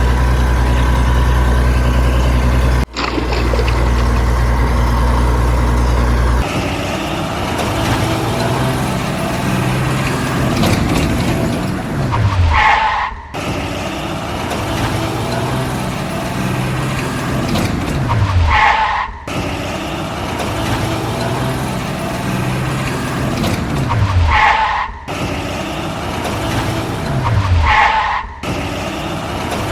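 Heavy truck engine running with a steady low drone, then a sequence that repeats about every six seconds: the engine note falls in pitch along with a high squeal, and each time the sound cuts off abruptly.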